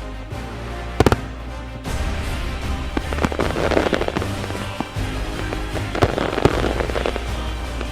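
Fireworks going off over background music: a sharp bang about a second in, then stretches of dense crackling bursts.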